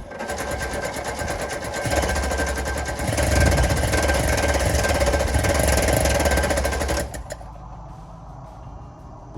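The 1965 Subaru 360's starter motor cranks its small two-stroke twin engine in a fast, even rhythm for about seven seconds without the engine catching, then stops. The no-start is later traced to a speck of dirt in the carburetor.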